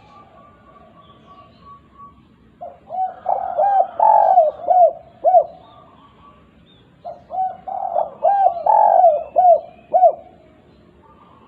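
Spotted dove (derkuku) cooing in the 'kuk 2' song style used as a lure for other doves: two phrases of repeated, arching coos, a few seconds apart. Faint chirps of small birds are heard in the background.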